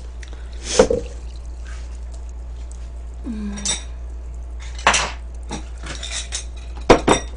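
Tableware being handled on a table: a handful of separate clinks and knocks of dishes and utensils, with a quick cluster of them near the end.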